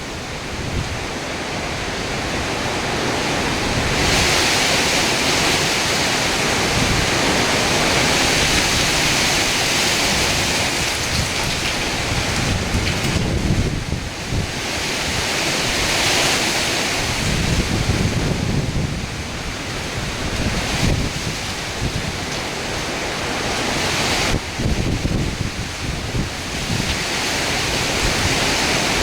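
Hurricane wind and rain, the hiss swelling and easing in long gusts, with wind buffeting the microphone.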